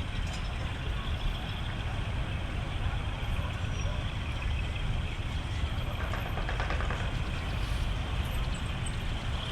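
Steady low rumble of large truck engines running, with faint voices in the background.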